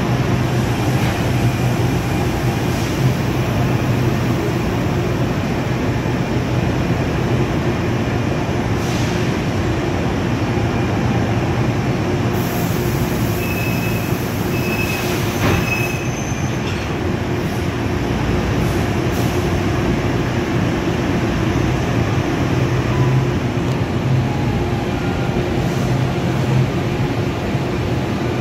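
NJ Transit stainless-steel passenger cars rolling past the platform: a steady rumble of wheels on rail. About halfway through comes a brief high squeal.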